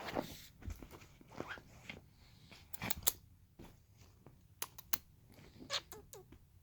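A puppy playing and chewing: scattered short clicks, crunches and snuffles, irregularly spaced.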